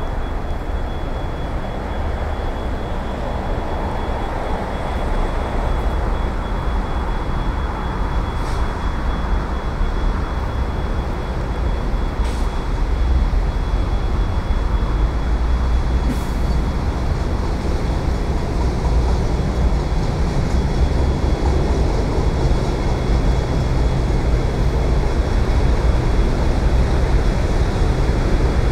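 VL80S electric freight locomotive and its train of tank cars approaching over the rails: a steady rumble that grows gradually louder as the train draws near.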